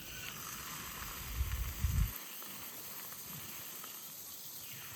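Steady hiss with a few faint crackles from a small wood fire burning in a palm-sized fire stand. A brief low rumble about a second and a half in is the loudest moment.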